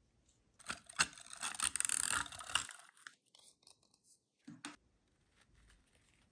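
Paper being handled, with a dense crackling, tearing-like rustle for about two seconds that cuts off abruptly, then a couple of light taps.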